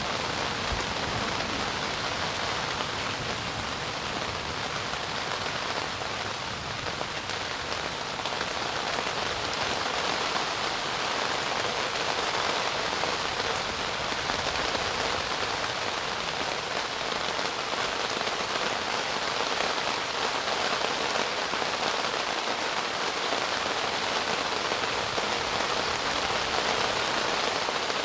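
Steady hard rain falling, an even hiss that grows slightly louder through the second half.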